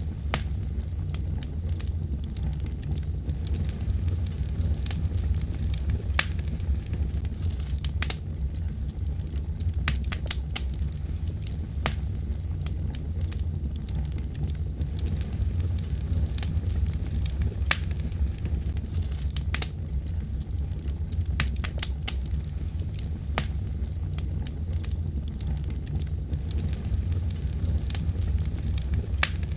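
Wood fire burning with a steady low rumble and frequent sharp crackles and pops at irregular intervals.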